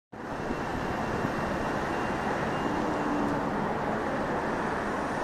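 Strong wind blowing, a steady rushing noise on the microphone.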